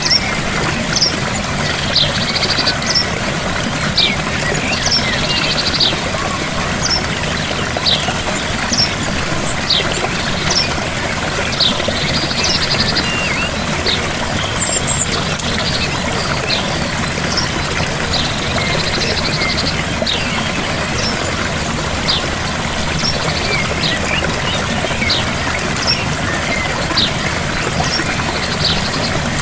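A gentle waterfall's steady rush of falling water. Birds chirp over it throughout, short high chirps about once a second, with a few brief buzzy trills.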